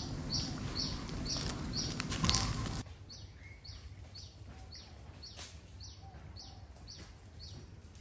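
A small bird chirping over and over in a steady rhythm, a little over two high chirps a second. A louder rustling noise underneath cuts off abruptly about three seconds in.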